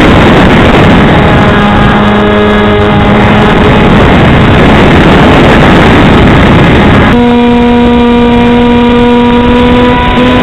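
Heavy wind buffeting on the microphone, with the steady hum of an electric RC plane's pusher motor and propeller. A lower hum shows about a second and a half in for two seconds, and a slightly higher steady hum comes in about seven seconds in and holds.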